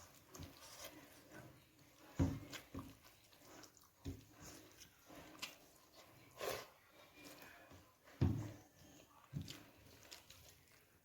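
A person chewing food close to the microphone, with wet mouth and lip noises at an uneven pace. Two louder short knocks come about two and eight seconds in.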